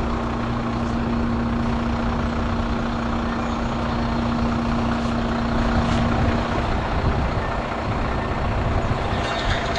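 Heavy recovery truck's diesel engine running steadily while it works the winch on the final pull of a 26-tonne truck out of a ditch, with a steady hum that stops about six and a half seconds in.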